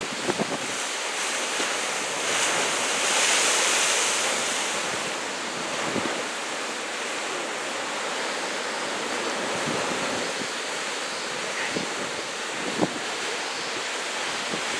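Ocean surf, stirred up by an approaching typhoon, washing and breaking steadily, with wind buffeting the microphone in a few short thumps. A wave breaks louder about three seconds in.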